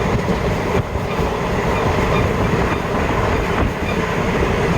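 Indian Railways express train running along the track, heard from aboard: a steady rumble and rattle of wheels and coaches on the rails.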